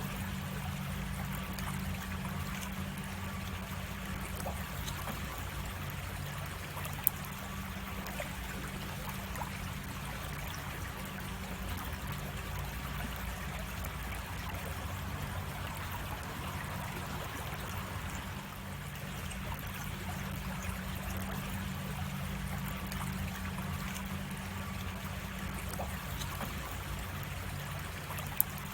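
Creek water flowing steadily over a cascade, with a low steady hum underneath. Two brief sharp clicks stand out, about seven seconds in and near the end.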